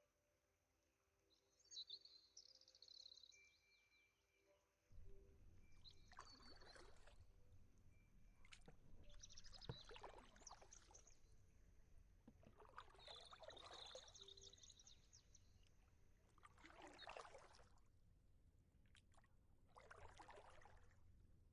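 Faint lake water sloshing in slow, regular swells about every three to four seconds, over a low steady rumble that sets in about five seconds in. Small birds chirp, mostly in the first half.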